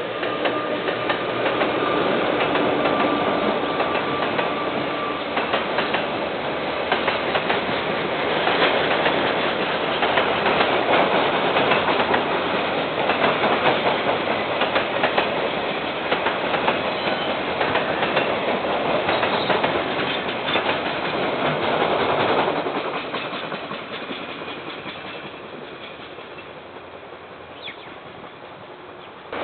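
A KiwiRail train passing close by, its wheels clattering rhythmically over the rail joints. It is loud for most of the time and fades away over the last several seconds as the train moves off.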